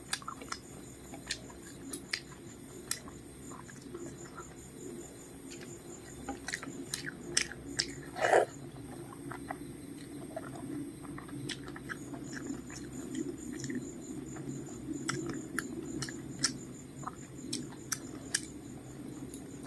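Close-up chewing and biting of rice with fried vegetables and fish: soft mouth clicks and smacks throughout, with one louder bite about eight seconds in.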